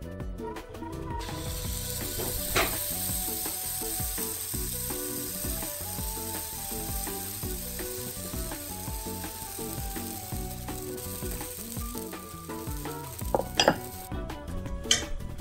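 Pancake batter sizzling as it hits a hot buttered cast-iron pan: a steady frying hiss that starts about a second in and stops shortly before the end. A light click comes a few seconds in, and a couple more near the end.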